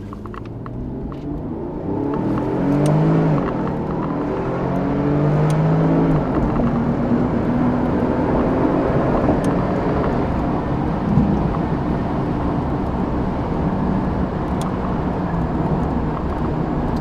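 Porsche 911 Turbo (997) twin-turbo flat-six with a Tubi Style exhaust under acceleration, revs climbing and dropping back twice in the first six seconds with the gear changes, then running steadily at speed with road noise.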